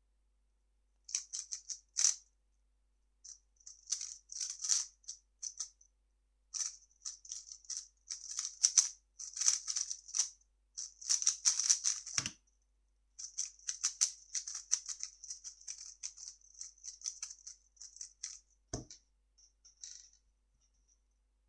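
A 3x3 speed cube being turned fast: runs of quick, crisp plastic clicking broken by short pauses. A dull thump comes a little past halfway and another near the end.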